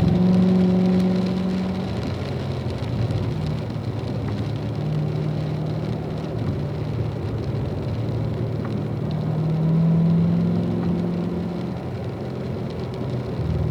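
Car engine running steadily at moderate revs while driving on a wet track, with a steady hiss of tyres and rain underneath. The engine note dips a little and then swells, loudest about ten seconds in.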